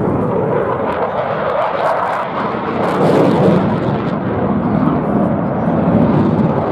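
Fixed-wing aircraft flying past: a loud, steady rumbling engine noise that swells about three seconds in and again near the end.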